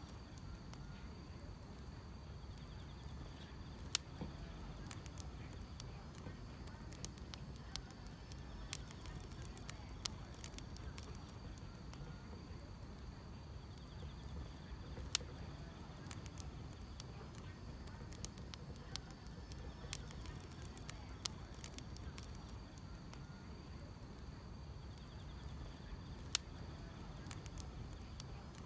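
Wood fire crackling, with scattered sharp pops over a low steady rumble, and a faint steady high drone of grass insects chirping in the background.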